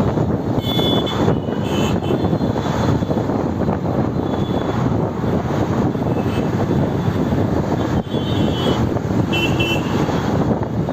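Motorcycle on the move: steady engine and wind rush on the microphone during a city ride. A few short high-pitched tones sound about a second in and again near the end.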